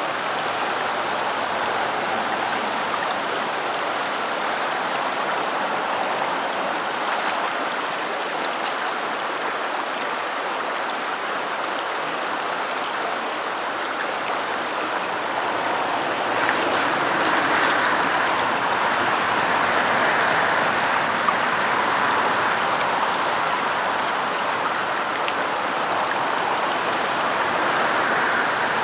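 Steady rushing of a small stream running high after heavy rain, with rain falling, growing a little louder around the middle.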